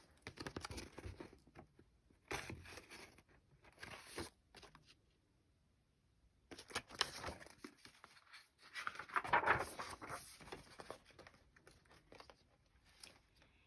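Soft intermittent rustling and crinkling handling sounds in a small room, in several short bouts with a silent pause in the middle.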